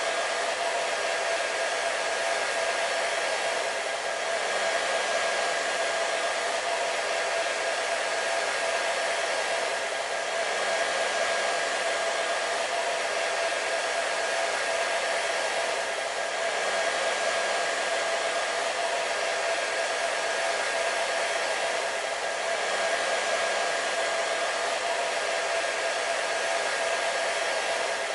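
Hair dryer running steadily: a constant rush of air with a steady motor whine in it, swelling slightly and easing every few seconds.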